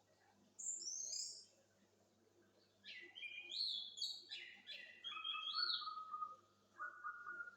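Orange-headed thrush (anis merah) singing: a short high whistled phrase about half a second in, then from about three seconds in a long varied run of whistled notes that drops to lower held whistles near the end.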